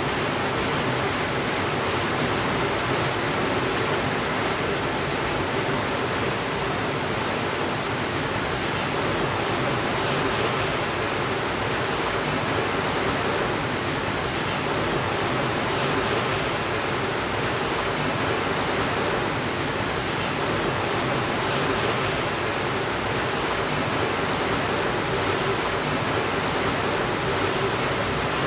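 Steady rainfall: an even, unbroken hiss with no separate drops, crackles or thunder standing out.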